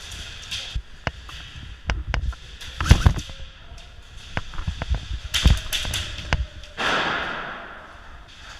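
Airsoft guns firing and BBs striking hard surfaces, heard as scattered sharp snaps and knocks in small clusters, then a rushing hiss that swells about seven seconds in and fades.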